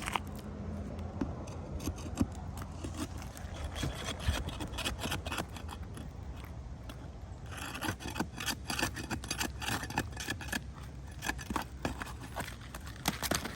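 Scraping and rubbing on asphalt roof shingles as ridge cap shingles and their nails are worked loose, with a dense run of quick rasping strokes starting about halfway through.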